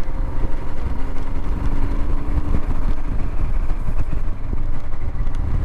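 Royal Enfield Himalayan single-cylinder motorcycle engine running steadily while riding, with wind rumbling over the microphone.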